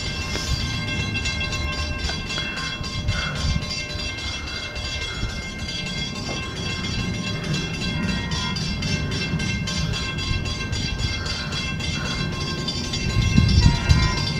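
Long Island Rail Road train led by a C3 cab car approaching from a distance: a low rumble with a steady high-pitched ringing of several tones, the rumble growing louder near the end.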